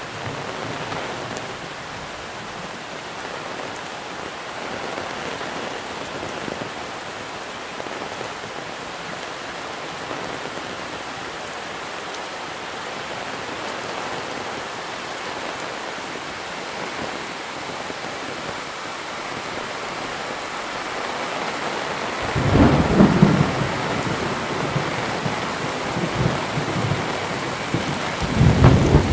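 Steady heavy monsoon rain falling, with a loud low rumble of thunder breaking in about three quarters of the way through and another starting near the end.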